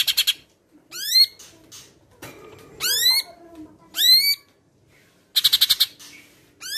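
Green leafbird (cucak ijo Medan) singing in short phrases: a rapid rattling chatter, then three loud whistled notes that sweep up and drop off, each about a second apart, and another rattling chatter about five seconds in. The song is stocked with learned imitations, sparrow calls among them.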